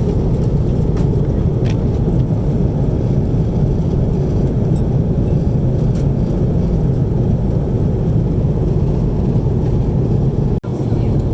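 Steady cabin rumble of an Airbus A330-300 in flight, heard from an economy seat: engine and airflow noise, strongest in the low range. It drops out for an instant near the end.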